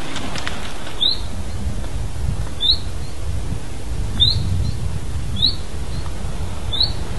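A small bird calling, a short rising chirp repeated five times about a second and a half apart, over a steady low rumble.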